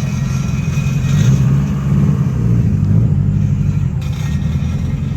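A car engine running with a deep rumble, swelling louder about a second in and easing back after about three seconds.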